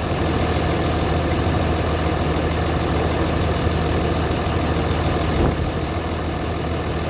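5.9 Cummins inline-six turbo diesel idling steadily, with no blow-by from the crankcase. There is a short knock about five and a half seconds in.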